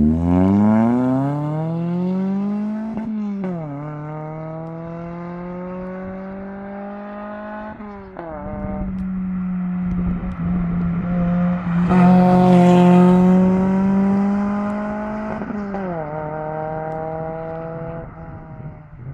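Toyota MR2's engine and exhaust pulling hard through the gears. The revs climb, drop sharply at upshifts about three and eight seconds in, then hold high and steady. They fall away again about sixteen seconds in and once more near the end.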